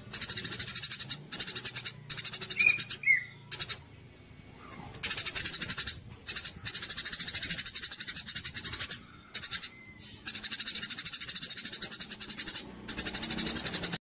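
A songbird singing fast, high-pitched rattling trills in bursts of one to two seconds with short pauses between them. A couple of brief whistled notes come about three seconds in. It is a masteran recording of a contest songbird's song.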